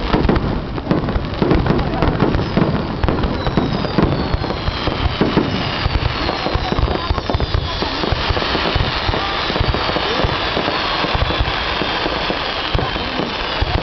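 Fireworks going off in dense, continuous succession, with crackling and sharp cracks. From about two seconds in, several whistles falling in pitch run through them.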